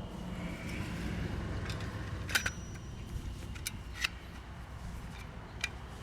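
A few sharp, light clicks, a second or so apart, over a steady low rumble.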